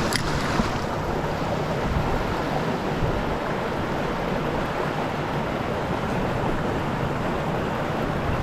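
Steady rushing of stream water flowing over rocks, with one brief click just after the start.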